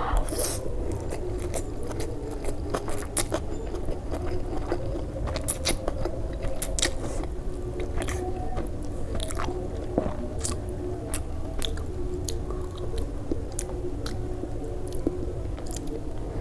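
Close-miked eating: chewing and biting with many sharp, crunchy clicks scattered throughout, over a steady low hum.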